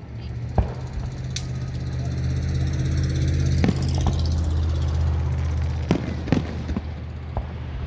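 A motor vehicle's engine running close by, a low steady hum that swells and then eases off, with about six sharp firework bangs scattered through it.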